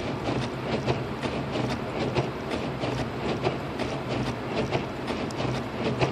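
Inside the cabin of a Lexus IS250 AWD driving on a snowy road: a steady low hum and road noise, with a run of quick ticks a few times a second.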